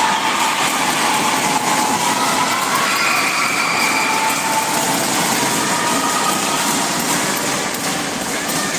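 Steady din of a crowd of spectators in an indoor sports hall, many voices blurring into one constant noise with a few faint drawn-out calls.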